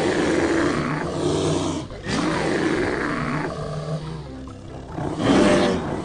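Bear growling in several long, rough roars with short breaks between them, the loudest about five seconds in.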